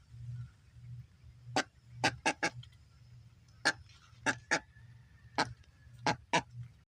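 A duck's bill pecking and tapping hard: about ten sharp taps at irregular spacing, several in quick pairs or triplets, over a low steady hum.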